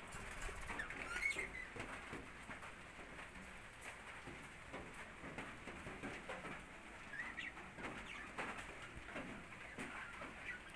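Budgerigars chirping and chattering in short calls, with many small ticks and scratches between them.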